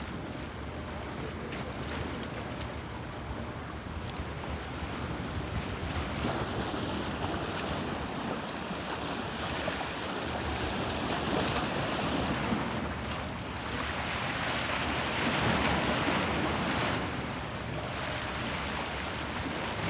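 Bosphorus sea waves washing and breaking in a continuous wash, swelling louder twice in the second half, with wind on the microphone.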